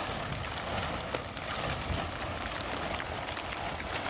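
Rain falling steadily, with many individual drops ticking close by.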